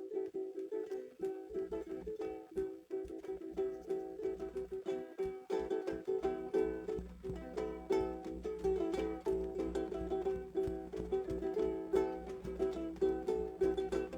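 Acoustic guitar strummed in a steady chord pattern, an instrumental stretch with no singing. A steady low hum comes in underneath about a second and a half in.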